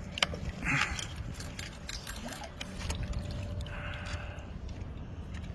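Water splashing and trickling around a kayak, with scattered light knocks and clicks of fishing gear and a landing net being handled; two short splashy bursts, one just under a second in and one about four seconds in.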